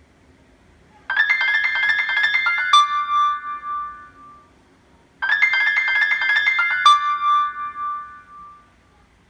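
A classic iPhone ringtone from an iPhone 4 speaker plays twice. Each time, a quick run of notes ends in one held note that fades out.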